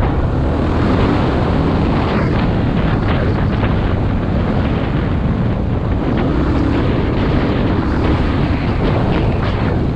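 Wind rushing over a helmet-mounted camera's microphone while riding a dual-sport motorcycle, with the bike's engine running underneath. A few brief knocks come through the steady noise.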